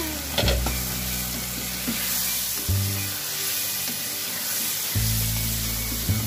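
Chicken liver and gizzard adobo sizzling in its sauce in a pan as a spatula stirs it, with a few scrapes of the spatula against the pan about half a second in.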